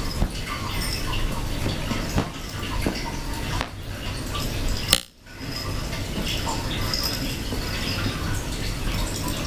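Water running, with light clinks of dishes. A sharp clink comes about halfway through, followed by a brief break in the sound.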